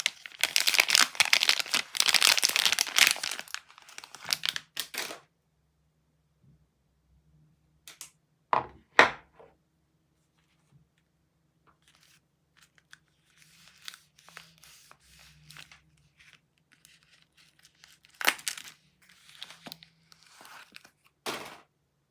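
A soap bar's wrapper being torn open and crinkled, loud and dense for the first three and a half seconds. Then two sharp taps around nine seconds, soft rustling, and two more brief crinkles near the end.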